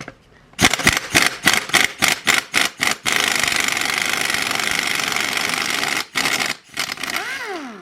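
Power impact wrench undoing an 8 mm Allen bolt on a manual transmission case. It starts with a quick series of short trigger blips, then hammers steadily for about three seconds, gives two more short bursts, and its motor whines down in pitch as the trigger is released near the end.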